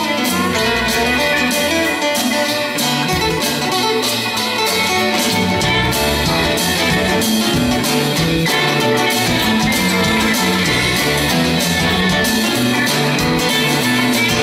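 Live band playing an instrumental passage: guitars over a moving bass line and a steady drum beat.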